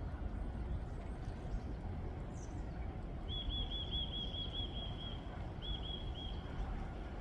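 A small bird sings a high, rapid trill of about ten evenly repeated notes, then a shorter trill of a few notes, over a steady low rumble of wind on the microphone.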